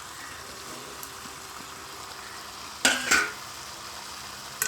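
Chicken curry sizzling steadily in a cheenachatti (Indian wok), with a spoon scraping twice against the pan a little under three seconds in and one sharp knock on the pan at the end.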